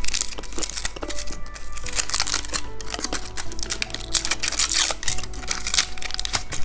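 Plastic candy packaging crinkling and rustling in the hands as it is opened, with steady background music.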